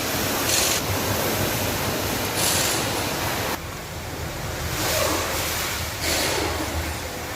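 Car's electric radiator cooling fan running, a steady rush of air with brief swells of hiss. The engine is overheating even with the fan on, which the mechanic traces to a stuck thermostat valve.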